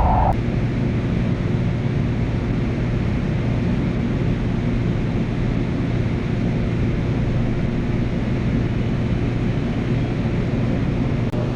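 Light-rail train running at speed, heard from inside the car: a steady rumble with a constant low hum. It is briefly cut off just before the end.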